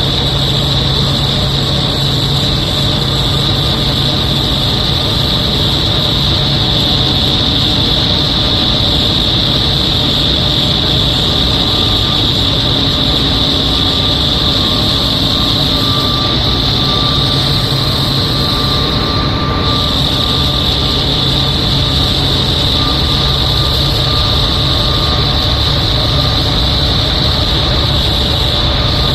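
Machinery of a plant's unit 1 running with a loud, steady, high-pitched hiss over a low hum and a few steady tones: the noise problem the unit has. The hiss dips briefly about two-thirds of the way through.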